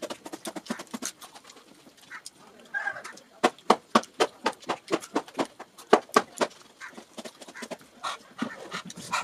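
Wet, close-up mouth sounds of eating rice and fried fish: chewing with sharp lip smacks, coming in a quick run of about four smacks a second through the middle.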